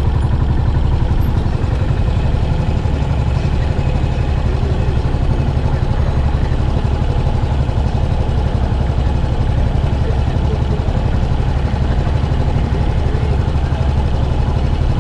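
Yamaha SR400's air-cooled single-cylinder engine running steadily through its stock muffler, a continuous low, rapid pulse with no revving.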